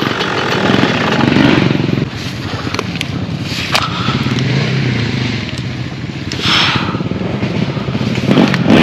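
Yamaha YZ125 dirt bike's single-cylinder two-stroke engine running at low revs while the bike sits bogged in mud, with scattered clicks and scraping. Near the end the engine revs up.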